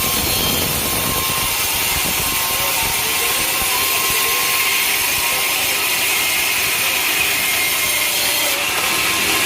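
Sawmill saw cutting through a teak log, running steadily, with a dense, hissy cutting noise and a faint steady whine.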